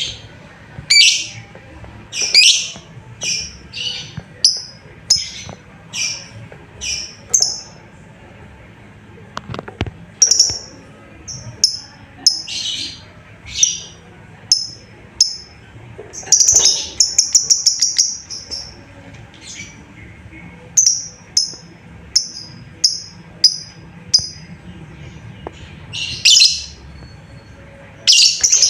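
Lovebird calling: a series of short, sharp, high chirps about two a second, broken by a few harsher screeches and a quick rapid trill about midway.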